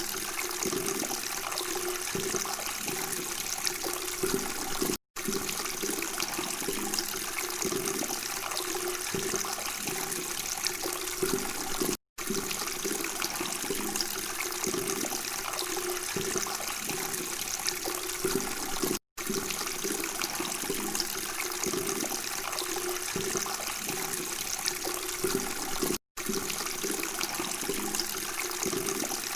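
Water running and gurgling steadily, broken by a very short silent gap about every seven seconds.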